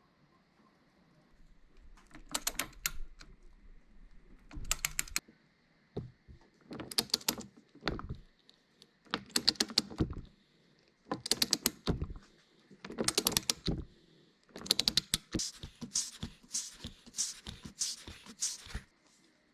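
A hand ratchet wrench clicking in short, quick bursts about every two seconds, one burst for each back-swing of the handle as a fastener is worked loose. The bursts come closer together in the last few seconds.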